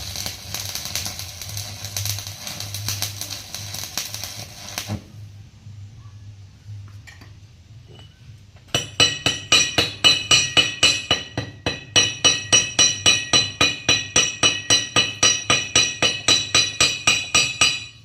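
Stick welding arc crackling for about five seconds over a steady low hum. Then, about nine seconds in, a hammer strikes the welded steel with a ringing clink, three to four blows a second with a short pause partway through, as when slag is chipped off a fresh weld.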